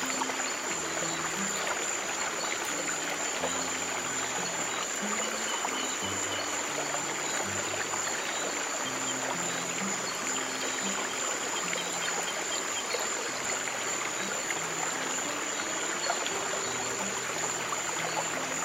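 Running stream water, a steady trickling rush, under slow, soft piano notes in a low register. A thin steady high-pitched tone sits above it throughout.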